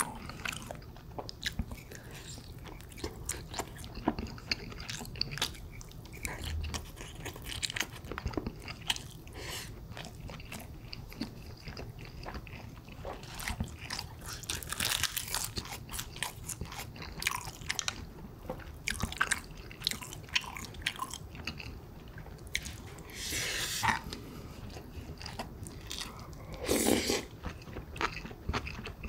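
Close-up eating sounds: chewing and biting through mouthfuls of rice, pork kimchi stew and dried laver, with many small clicks. A few longer, louder noisy sounds come about halfway through and near the end.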